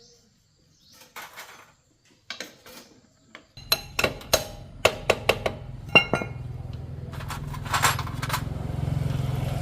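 Metal tools and parts clinking and clattering in a series of sharp strikes. About three and a half seconds in, a steady low machine hum starts and runs on under them.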